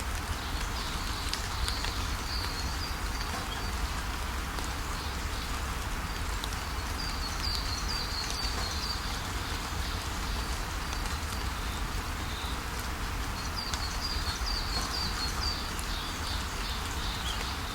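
Steady rain falling, with small birds chirping in quick runs of short notes three times over it.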